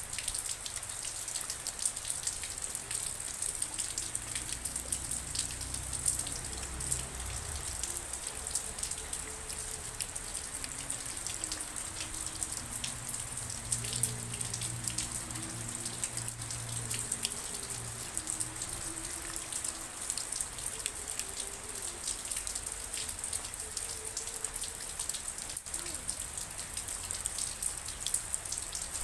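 Steady rain falling, with a dense hiss and many individual drops striking a surface.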